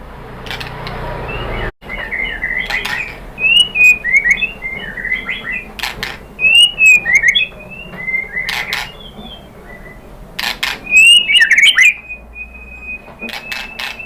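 White-rumped shama (murai batu) singing: quick, varied whistled phrases broken by several loud, sharp clicking notes, with a long steady whistle near the end.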